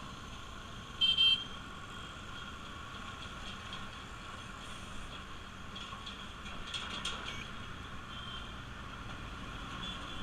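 Bajaj Pulsar RS200's single-cylinder engine running under way with steady road noise. About a second in, a vehicle horn gives a short double toot, the loudest sound.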